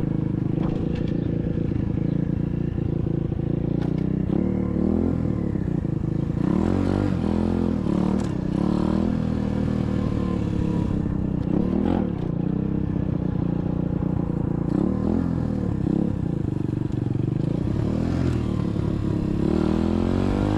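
SSR 125cc dirt bike's single-cylinder four-stroke engine running at low speed, its pitch rising and falling with the throttle. There are a few sharp clacks along the way.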